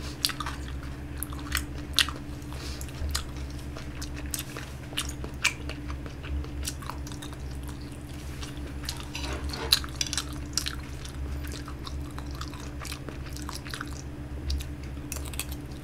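A person chewing kimchi fried rice close to the microphone: irregular soft mouth clicks and smacks over a steady low hum.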